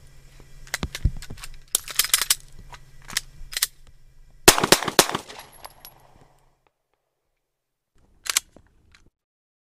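Handgun drill: a series of sharp cracks and clacks in uneven clusters, the loudest about halfway through, then two faint clicks near the end.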